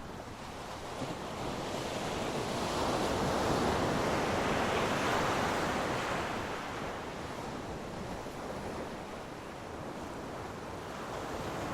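Sea waves breaking on a beach: one wave surges up about two seconds in, peaks and washes out over several seconds, then another begins to build near the end.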